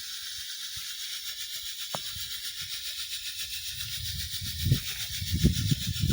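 Pyrotechnic smoke fountain burning with a steady hiss as it pours out coloured smoke. Irregular low rumbles come in from about four seconds in.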